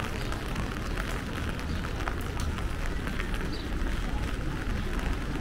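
Rain on a city street: scattered short raindrop ticks over a steady low rumble of street noise.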